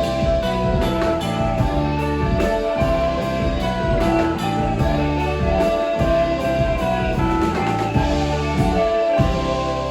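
Live band playing: guitar over a drum kit, the notes ringing on as the drums drop out near the end.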